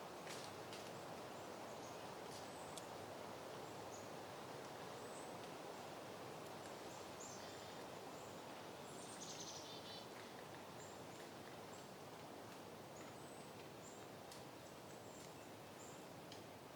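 Soft, steady wind rustling through peony plants, with faint high bird chirps scattered throughout and a brief burst of twittering about nine seconds in.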